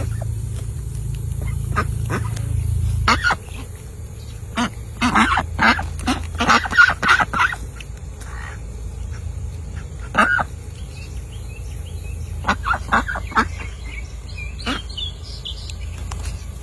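Ducks quacking in short bursts of quick calls, the busiest stretch in the middle and another run a few seconds later. A low rumble underneath fades out about three seconds in.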